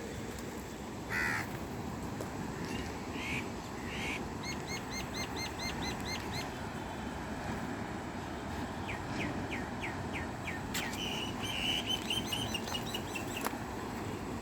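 A crow cawing a few times in the first four seconds, and small birds chirping in quick runs of repeated high notes through the rest, over steady low background noise.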